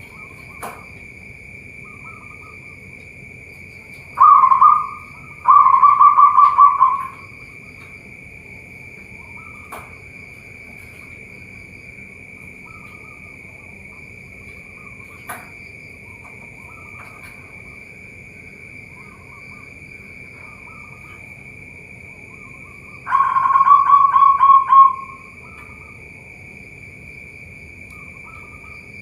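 Zebra doves cooing in rapid pulsed runs: a short call about four seconds in, a longer one right after, and another near the end. Under them runs a steady high insect drone.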